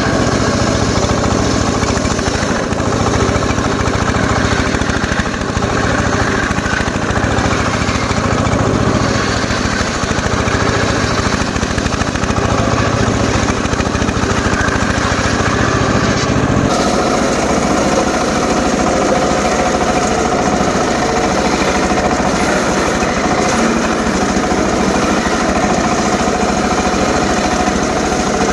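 Homemade circular saw running steadily and loudly while cutting short teak logs. About two-thirds of the way through, the sound changes abruptly: the low rumble drops away and a steady higher hum takes over.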